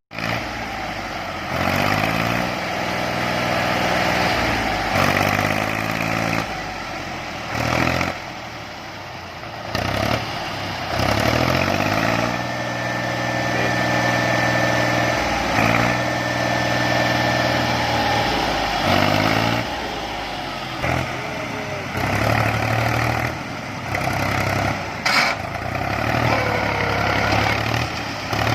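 Mahindra 585 DI Power Plus tractor's diesel engine working under a fully loaded trolley, its note rising repeatedly as it is revved up and held, about six times, then settling to a lower steady run near the end. A sharp click comes shortly before the end.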